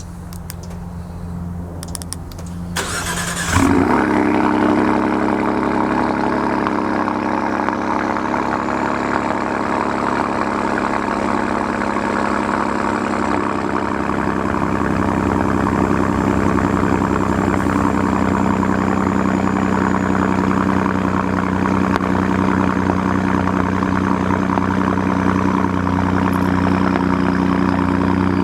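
Ford 3.5L EcoBoost twin-turbo V6, breathing through a Corsa Extreme cat-back exhaust with the resonator deleted, cold-started: the starter cranks briefly, and the engine catches about three and a half seconds in. It then settles into a steady, loud fast idle.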